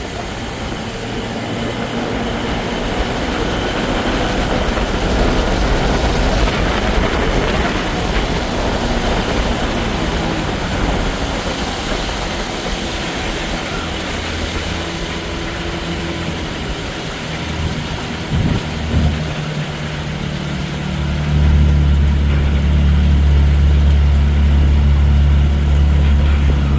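Johnson 20 hp outboard motor running steadily under way. It gets louder and deeper a little past two-thirds of the way through.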